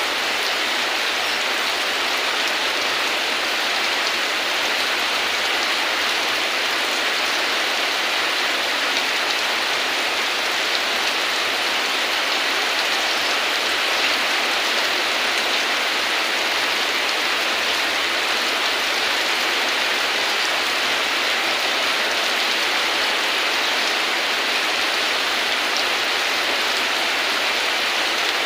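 Steady heavy rain, an even hiss of falling drops, with no thunder and no change in strength.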